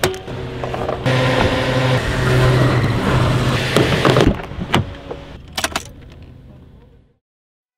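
Car being started with the key: a click, then the engine catches and runs with a steady hum that eases off after a few seconds. A few sharp clicks come near the end before the sound cuts off suddenly.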